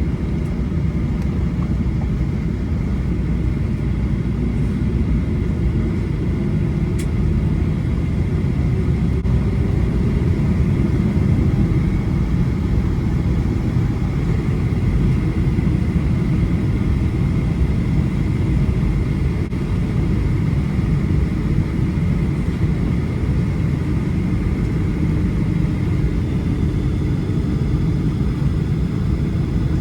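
Steady low rumble of a Boeing 737-800 heard from inside the cabin after landing, with a faint steady whine over it.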